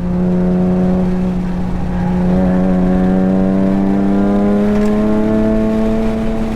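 Nissan 370Z Nismo's 3.7-litre V6 pulling hard on the throttle, its pitch rising slowly and steadily as the car accelerates down a straight.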